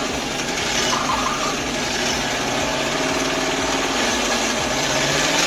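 A heavy truck engine running steadily.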